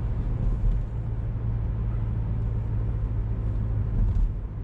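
Car being driven: a steady low engine and road rumble.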